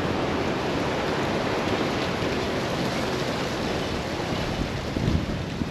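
Wind buffeting a GoPro's microphone: a steady, uneven rushing noise heaviest at the low end.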